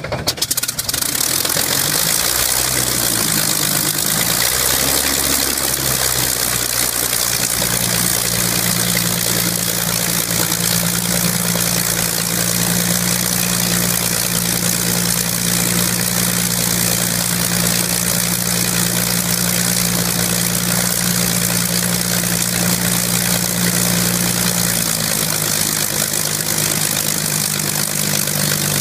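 Hispano HA-1112 Buchon's Rolls-Royce Merlin V12 engine, just started for the first time in 45 years, running unevenly for several seconds and then settling into a steady idle, its propeller turning. The pitch shifts slightly near the end.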